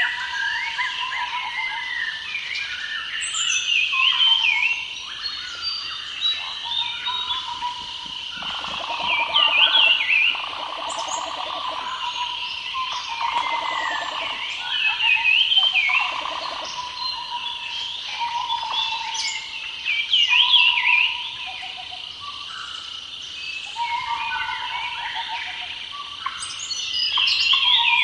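Chorus of wild birds chirping and calling over one another, with a steady high drone beneath. A buzzy, rattling call comes in from about eight seconds in and stops near seventeen seconds.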